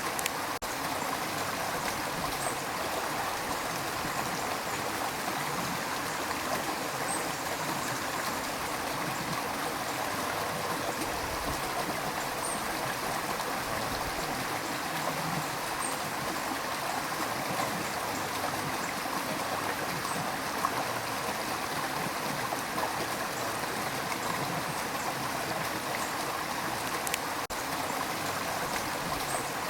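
River water rushing and gurgling steadily over stones, an even wash of sound with small splashes and trickles.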